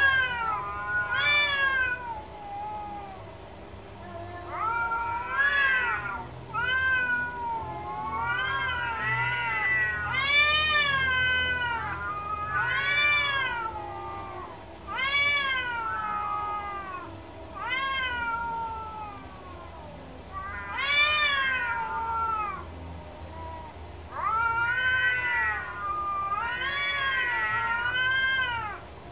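Cat meowing over and over, about a dozen separate meows, each rising then falling in pitch, some long and drawn out.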